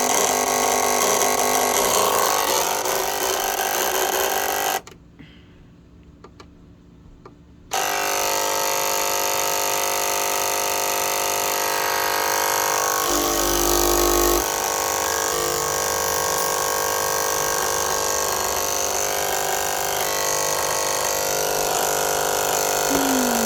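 Cricut Explore Air 2 cutting machine running with a grinding noise from its motors, stopping for about three seconds and then starting again; a deeper hum joins for a moment in the middle. It is a fault the owner cannot explain.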